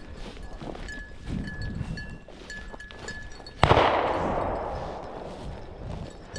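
A dog's bell jingling in short, repeated rings as a bird dog works the cover. About three and a half seconds in, a single shotgun shot goes off, the loudest sound, with a long echoing tail that fades over about two seconds.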